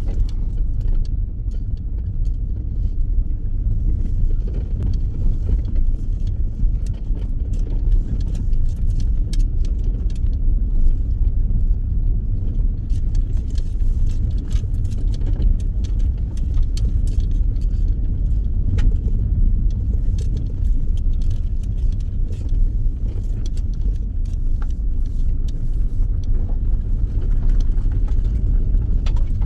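A motor vehicle driving, with a loud, steady low rumble of engine and road noise and light rattles throughout.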